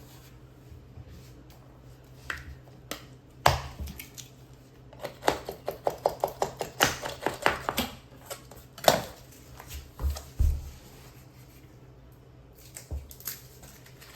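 Handling sounds from repair work: a sharp knock, then a quick run of clicks at about five a second for a few seconds, followed by a knock and a couple of low thumps.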